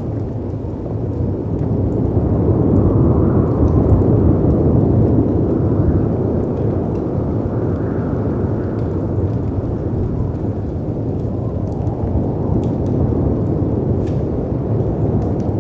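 Layered storm ambience: a deep, continuous rumble of wind and surf that swells and eases in slow surges, with faint scattered crackles of a wood fire.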